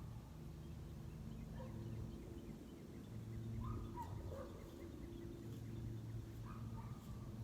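Faint bird calls, short notes recurring every two to three seconds, over a low steady hum.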